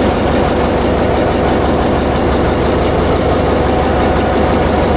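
Diesel generator engine running steadily on its trial run after a major overhaul.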